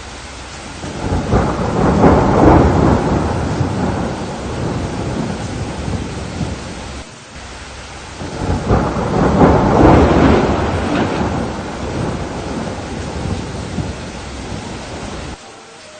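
Steady rain with two long rolls of thunder. The first swells about a second in and the second about eight seconds in. Each rumbles for several seconds, then cuts off abruptly.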